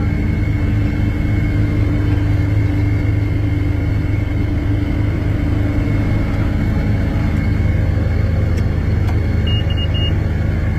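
1989 Case IH 9150 tractor's six-cylinder diesel engine running steadily at an even speed. Near the end there are three short high beeps.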